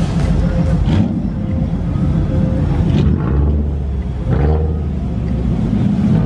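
Car engine and exhaust rumbling steadily, deep and loud, swelling about three seconds in.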